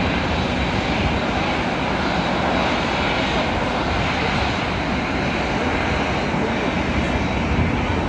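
Airbus A380's jet engines running at low taxi power as the airliner rolls onto its parking stand: a steady, even rush of engine noise with no change in level.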